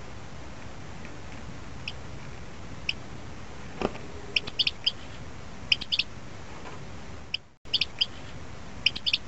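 Small bird chirping: short high chirps, singly and in quick clusters of two or three, about every second over a steady outdoor hiss. A single soft knock sounds about four seconds in.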